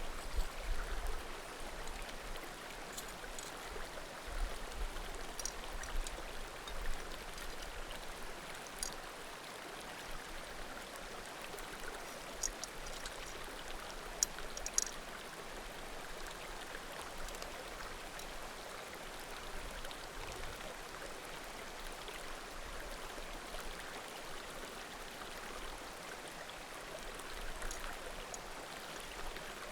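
Small mountain creek flowing steadily over rocks, with a handful of sharp pops and crackles from burning firewood scattered through it, mostly in the first half.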